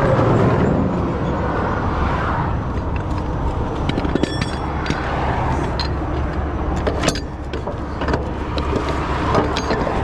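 Heavy vehicle engine running steadily, with scattered sharp metallic clinks and clanks over it, some briefly ringing.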